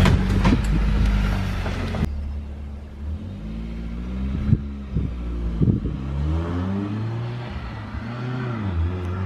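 Four-cylinder Jeep Compass engine running through an exhaust with a muffler refitted after being straight-piped: a steady low drone for about two seconds, then revved up and down several times.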